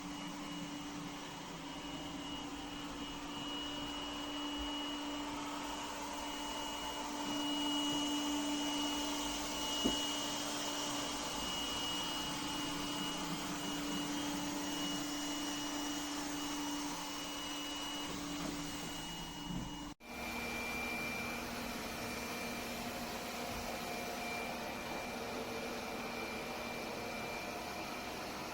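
Vacuum cleaner running steadily with a motor whine, and one short knock about ten seconds in. Near the end there is an abrupt break, after which the motor hum carries on at a different pitch.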